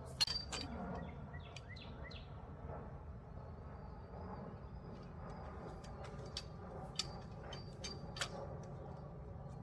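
A few sharp clicks and clinks, some with a short high metallic ring, as Springfree trampoline net poles and frame parts are handled and fitted. The loudest comes just after the start, with two more about seven and eight seconds in, over steady outdoor background noise with faint bird chirps.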